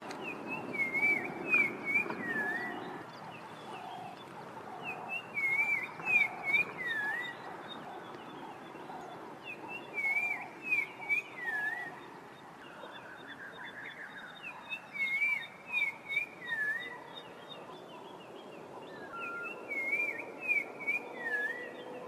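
Black-crowned tchagra singing: a whistled phrase of several slurred, dipping notes, repeated five times about every five seconds.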